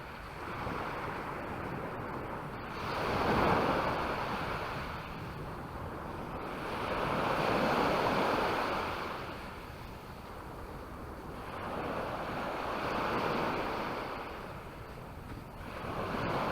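Sea waves breaking and washing up on the shore, the surf swelling and falling back about every four to five seconds, with some wind on the microphone.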